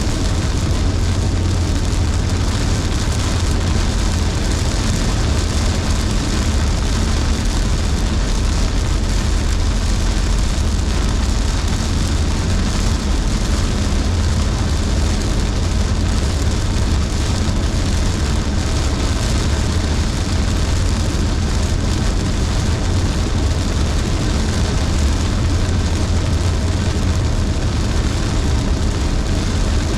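Car driving in heavy rain: a steady low road rumble with the hiss of tyres on wet pavement and rain hitting the car, unchanging throughout.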